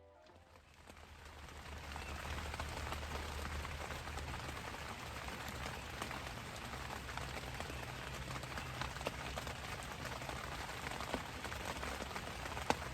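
Steady hiss of ambient noise dotted with light, scattered ticks, like a pattering, fading in over the first couple of seconds.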